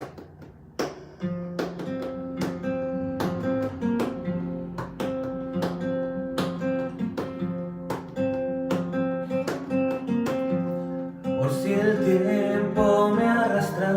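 Acoustic guitar strumming chords in a steady rhythm, with a sung or melodic line coming in near the end.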